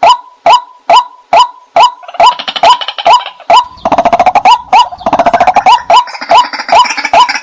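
White-breasted waterhen calls played as a hunting lure: a steady series of short, clipped notes about two to three a second. About two seconds in, faster overlapping notes join them and thicken into a rapid chatter.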